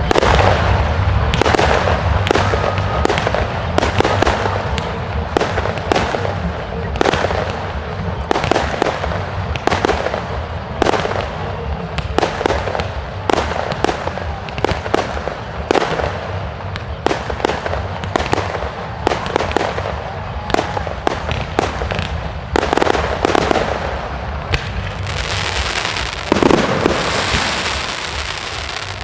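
Fireworks display: a rapid, irregular run of bangs and crackles, several a second, over a steady low rumble, with a louder cluster of bangs near the end.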